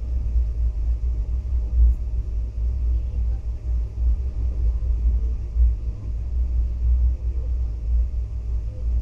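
Steady low rumble of a Garib Rath Express passenger coach running at speed, heard from inside the carriage.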